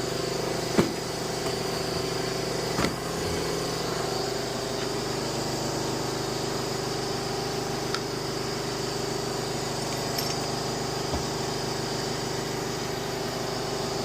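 An engine or motor running steadily, with a few light knocks and clicks of tools or parts over it.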